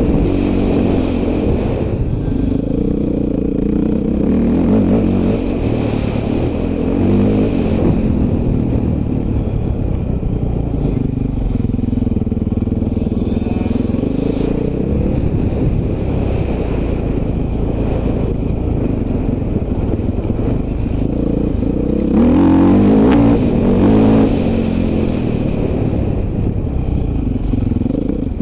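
Dirt bike engine running, its pitch rising and falling as the throttle opens and closes, with a louder rush of noise about 22 seconds in that lasts about two seconds.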